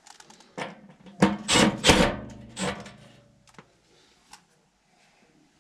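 Metal parts of a furnace blower assembly clanking and scraping as they are handled and fitted, a handful of knocks with a brief ringing, loudest between about one and two seconds in.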